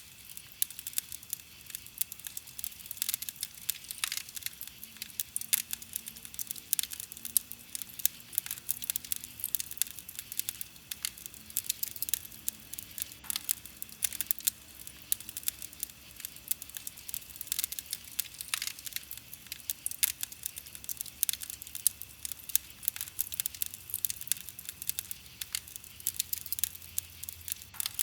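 Wood campfire crackling: a steady stream of small sharp pops and snaps from burning wood, with now and then a louder pop.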